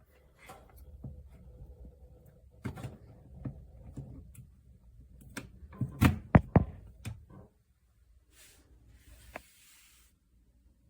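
Objects being handled and set down: a series of knocks and clunks, several close together about six seconds in, followed by two short hissing or rustling noises.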